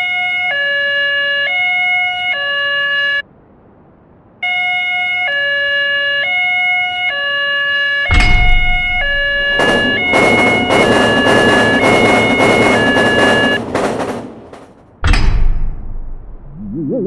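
Cartoon railroad-crossing warning alarm: an electronic two-tone signal alternating slowly between a higher and a lower note. It breaks off for about a second and then starts again. About 8 s in there is a heavy thump, then a loud rushing noise under the alarm, and another thump near the end.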